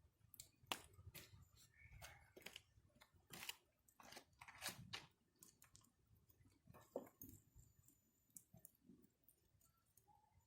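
Wood fire crackling, with irregular sharp pops and snaps from the burning wood.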